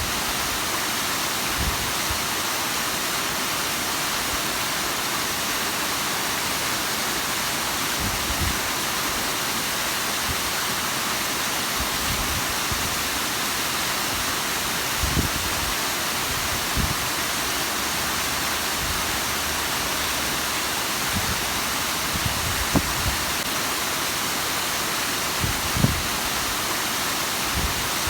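Bigăr waterfall: a steady, even rush of falling and splashing water, with a few soft low thumps now and then.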